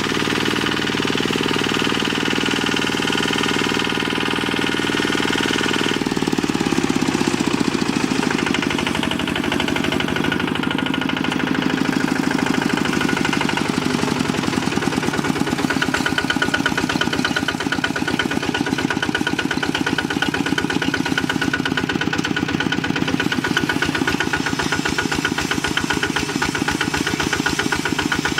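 Kubota RT hand tractor's single-cylinder diesel engine running steadily with a rapid knocking beat; its note shifts about six seconds in.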